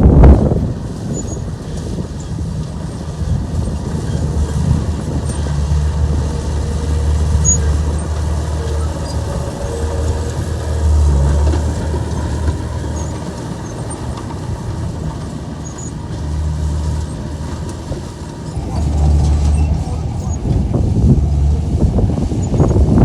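A Komatsu bulldozer's diesel engine runs with a low, steady hum that swells and eases a little over time.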